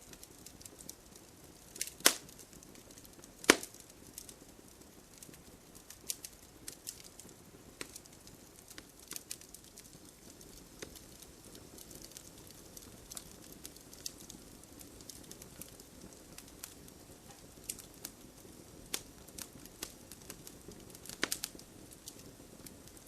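Wood campfire crackling: a low steady hiss with irregular sharp snaps, two loud pops about two and three and a half seconds in and another cluster near the end.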